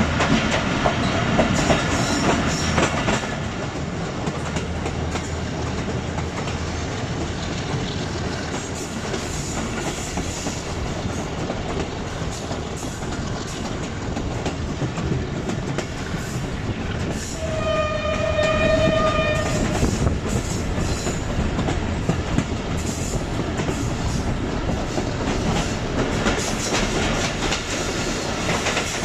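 Passenger coaches running steadily over the rails with a continuous rumble and wheel clatter, heard from an open coach doorway. About two-thirds of the way through, the diesel locomotive at the head sounds its horn once: a single steady note held for about two seconds.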